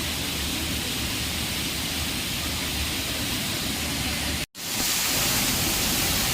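Waterfall: a steady rush of falling water, broken by a brief dropout about four and a half seconds in, after which the rush resumes slightly brighter.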